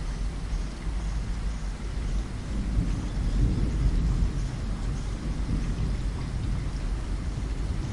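Steady rain falling against a window, with a low rumble of thunder that swells about three seconds in and again a little later.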